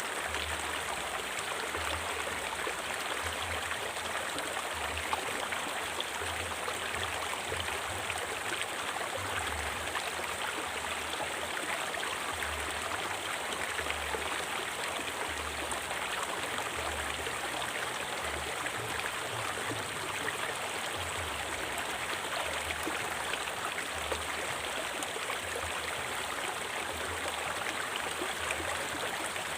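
River water flowing: a steady, even rush with irregular low rumbles underneath.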